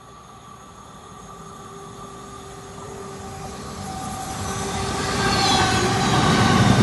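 Train approaching along the line, growing steadily louder throughout, with steady whining tones over a rising rumble of wheels on rail.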